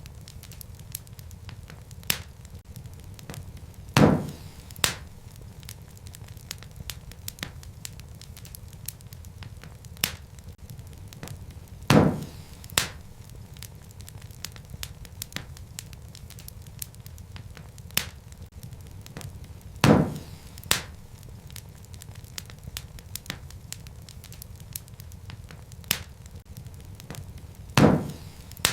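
Wood fire burning in a fireplace, with a steady low rumble and constant small crackles of burning logs. A loud sharp pop comes about every eight seconds, each followed within a second by a smaller one.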